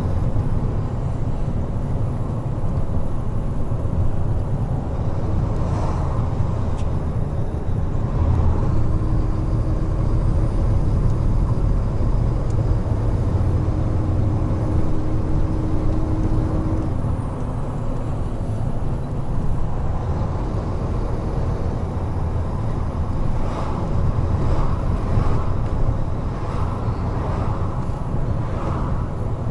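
Large truck cruising on an expressway, heard from the cab: a steady low engine drone with road and tyre noise.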